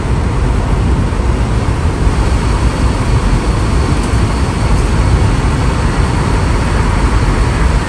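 Steady road and engine noise inside a moving car's cabin, cruising at about 70 km/h.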